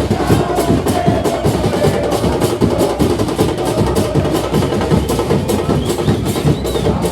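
Supporters' drums beaten in a fast, continuous rhythm, with music over them.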